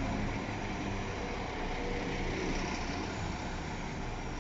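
West Midlands Railway diesel multiple unit running through the platform close by, with a steady mix of underfloor diesel engine and wheel-on-rail noise, slowly fading toward the end.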